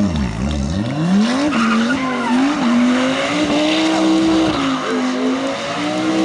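Rally car engine revved in quick blips, then climbing and held at high revs with brief dips, while its tyres skid and squeal in a show drift.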